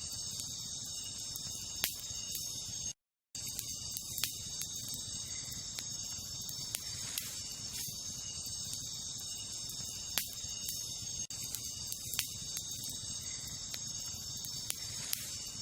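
Wood campfire crackling, with a few sharp pops standing out, over a steady high chorus of night insects. The sound cuts out completely for a moment about three seconds in.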